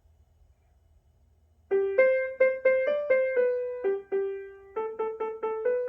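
Near silence, then about a second and a half in a piano melody begins: single notes struck one after another, roughly three a second, each ringing and fading.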